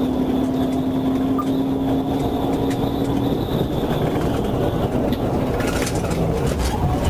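Steady road and engine noise of a vehicle driving at speed, with a steady hum for the first three seconds or so.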